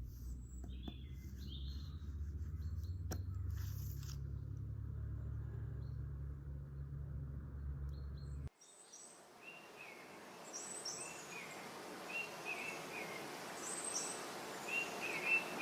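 Small birds chirping in short repeated calls over a steady hiss. For the first half, a low rumble with a few clicks and chirps is heard, and it cuts off suddenly before the chirping takes over.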